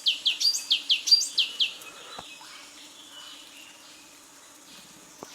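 Parrot giving a quick run of sharp, falling chirps, about three a second, for roughly two seconds, then a fainter steady background hiss.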